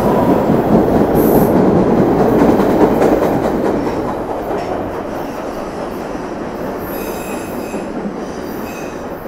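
A train running past on the rails, loud at first and fading away after about three seconds. Faint high wheel squeal comes in near the end.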